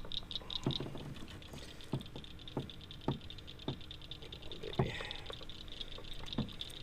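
Irregular sharp clicks and taps, roughly one every half second, from hands and gear working a deep-set hook out of a channel catfish. Under them runs a steady, high, rapidly pulsing night chorus.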